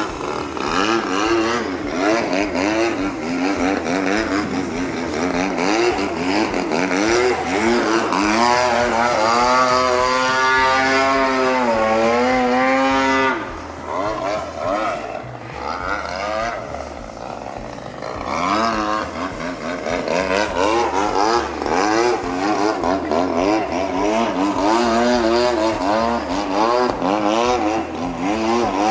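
26cc gasoline two-stroke engine of a CRRC Katana V3 aerobatic RC plane in flight, its pitch rising and falling continually through the manoeuvres. About halfway through it drops quieter for around five seconds, then picks up again.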